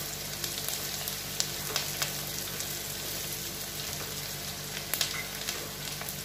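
Chopped onions, green chillies and white sesame seeds sizzling in hot oil in a non-stick kadai, stirred with a wooden spatula: a steady frying hiss with scattered crackles and pops and the spatula scraping the pan.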